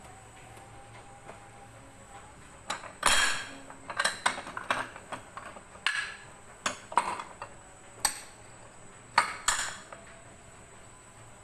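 Dishes and cutlery being handled: a series of clinks and knocks, some ringing briefly, after a quiet first couple of seconds. The loudest is a short clatter about three seconds in.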